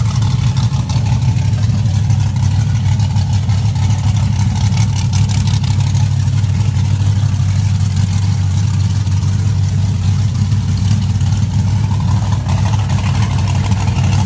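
Truck engine running loudly at a steady, unchanging speed, with no revving up or down.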